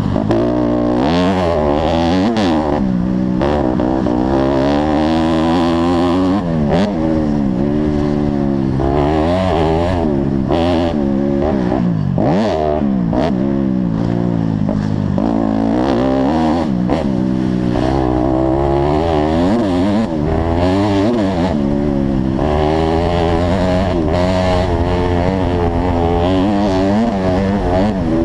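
Honda CRF150R's four-stroke single-cylinder motocross engine, revving hard and backing off over and over, its pitch rising and falling every second or two as it is ridden around the track.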